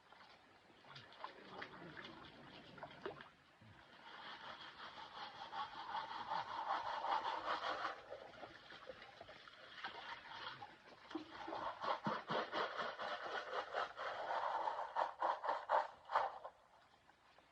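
Water sloshing with gravel rattling in a gold pan as it is swirled and shaken, in two long spells; the second stops suddenly near the end.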